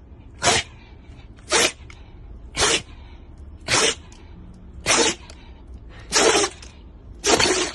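A pet sneezing over and over: short, sharp sneezes about a second apart, seven in a row.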